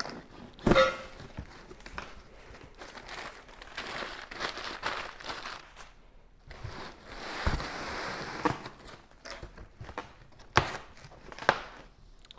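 A cardboard shipping box being opened and handled: cardboard and packing rustling, crinkling and tearing, with a few sharp knocks.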